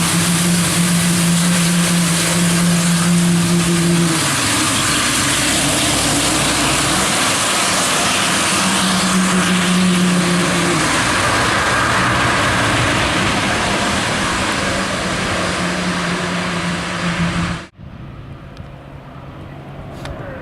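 Loud, steady aircraft engine noise with a low hum that fades out and comes back, cut off suddenly near the end.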